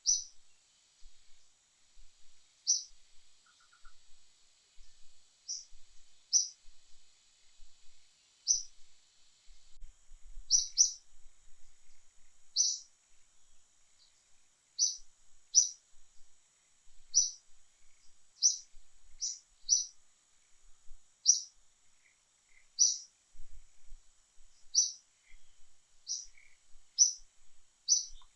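A bird chirping: short, high chirps repeated irregularly every second or two, over a faint steady high-pitched hiss.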